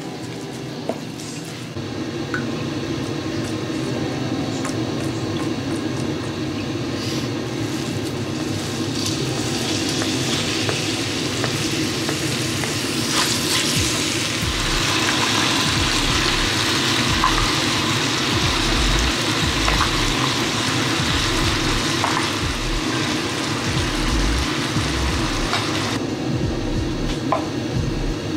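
Chopped chicken sizzling as it fries in a stainless steel pan, turned now and then with a wooden spatula; the frying hiss is strongest through the middle stretch.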